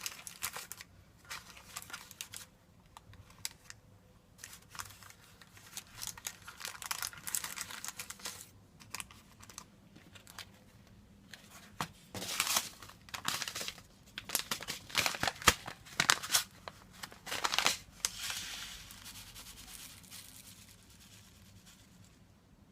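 Irregular crinkling and rustling handling noises, coming in clusters and busiest in the second half.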